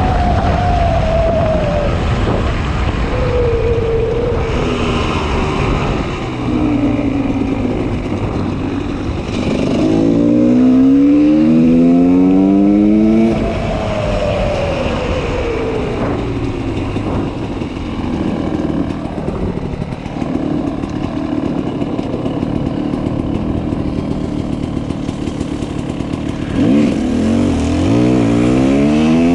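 GasGas 300 two-stroke motorcycle engine with an FMF Powercore 2 exhaust, under way. It revs up hard through several gears about ten seconds in and again near the end, and in between the revs fall away and it runs lower.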